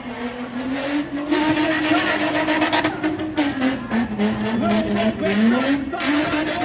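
Spinning car's engine held at high revs, its pitch wavering up and down, with tyres spinning and screeching on the pavement.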